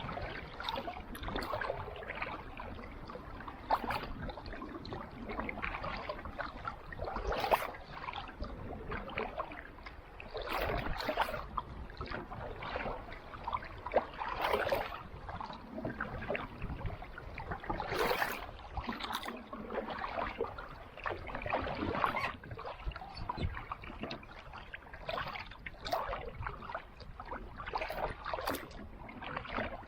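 Kayak paddle dipping and splashing in calm sea water, a stroke every three to four seconds over a steady wash of water.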